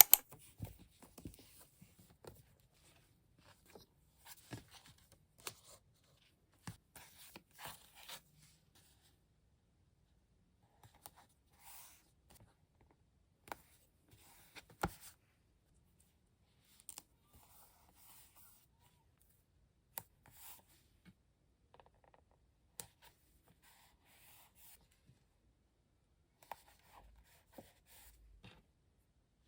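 Scattered light clicks, taps and brief rustling of small objects being handled at close range, with quiet gaps between them.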